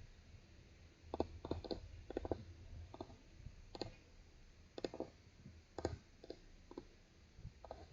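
Computer keyboard keys being tapped in short irregular bursts, a series of distinct clicks starting about a second in.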